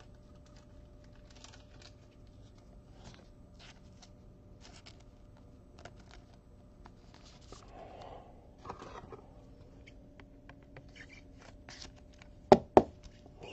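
Trading cards being handled on a table: faint rustles and light taps, with two sharp clicks in quick succession near the end.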